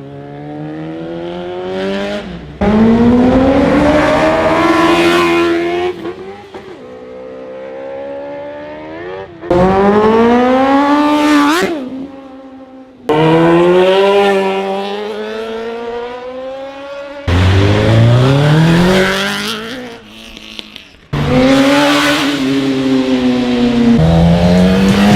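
High-revving superbike engines accelerating hard, the pitch climbing through the revs and then dropping, in about five separate loud runs that start abruptly.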